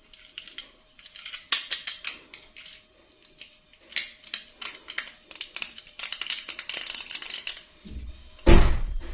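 Hands handling plastic doll packaging and doll parts: a quick run of small clicks and crinkly rustles, with a heavier thud near the end.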